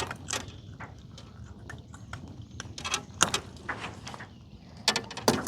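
Scattered knocks and clicks of handling on a fishing boat, loudest about three seconds in and again near the end, over a low steady rumble.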